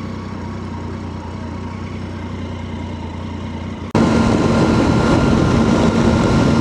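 Triumph Tiger 800's three-cylinder engine running steadily while riding, with wind and road noise. About four seconds in the sound cuts abruptly to a louder, rougher stretch of the same riding noise.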